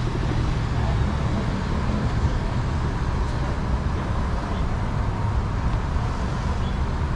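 Steady rumble of road traffic with a faint constant hum.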